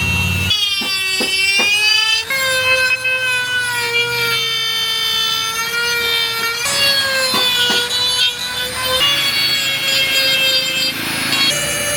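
High-speed power carving tool whining as it cuts into wood, its pitch dropping and shifting several times as the load changes.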